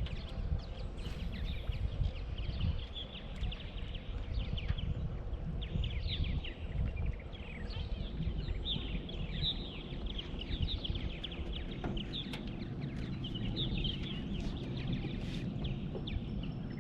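Birds chirping: many short, quick down-slurred chirps in rapid succession, over a steady low rumble.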